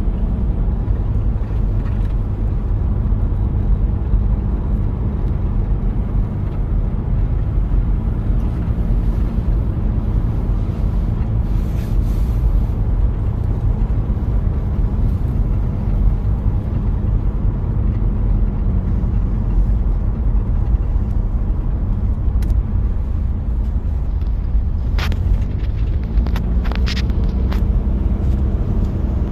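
1993 Toyota Prado diesel engine running steadily while driving, a deep even drone with tyre and road noise. A few sharp clicks near the end.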